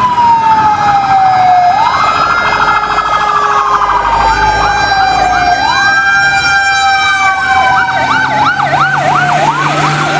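Toy fire engine's electronic siren sounding: a wail that climbs quickly and falls slowly, repeating about every four seconds. In the second half a fast warbling yelp joins it, over steady high tones.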